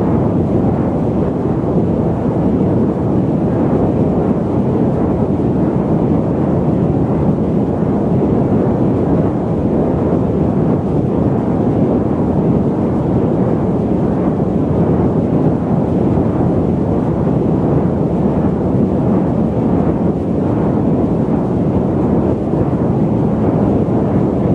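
Steady low rumble of a jet airliner's cabin in cruise: even engine and airflow noise, strongest in the low range, with no changes.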